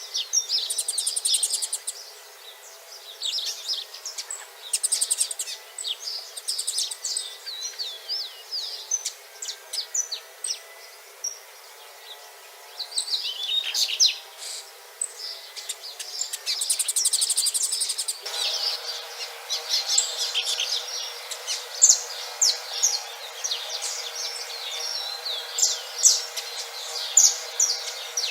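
Double-collared seedeater (coleiro) singing: phrases of quick chirping notes and short buzzy trills, broken by brief pauses.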